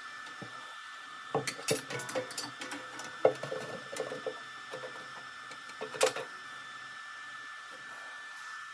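Irregular clicks and knocks of metal parts as an XY table is squared up on a lathe, with two louder knocks a little after three seconds and near six seconds, over a steady hum.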